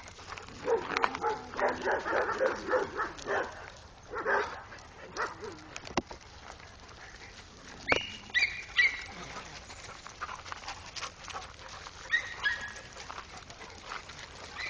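Dogs barking, a quick run of barks in the first few seconds, then a few short high-pitched whines or yelps later on.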